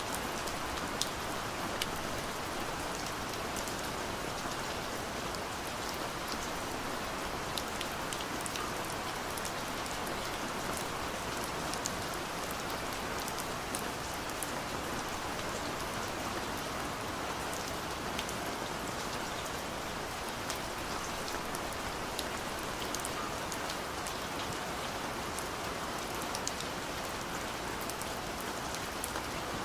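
Steady rain falling, a constant hiss with the ticks of individual drops hitting a surface scattered through it.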